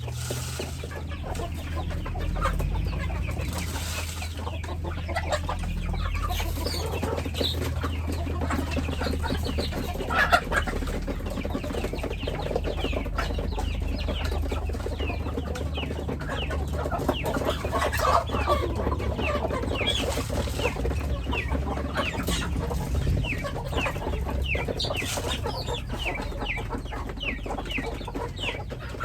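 Chickens clucking, with many high, short, falling peeps throughout, over a steady low hum.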